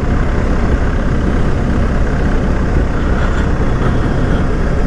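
BMW R1250GS Adventure's boxer-twin engine running steadily while riding along, mixed with a steady rush of wind noise.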